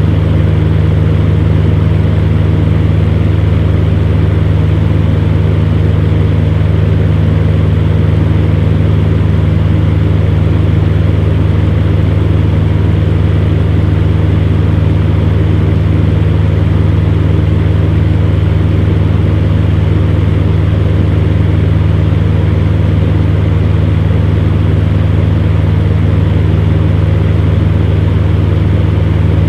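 Electric fan running, a steady whooshing hum.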